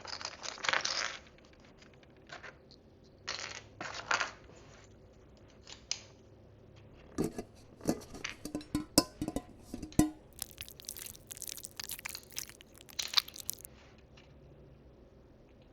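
Small plastic miniature food pieces and dishes being handled. There are short rustles, then a quick run of light clicks and taps as pieces knock together, then a few seconds of crinkly rustling of plastic wrapping.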